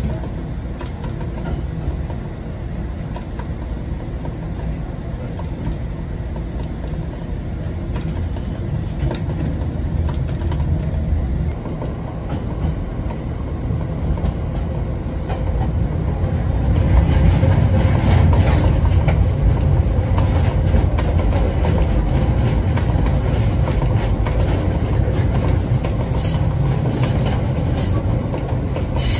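Pingxi Line diesel railcar running along the track: a steady rumble of wheels on rail, growing louder about two-thirds of the way through. Short high wheel squeals come near the end as it takes a curve.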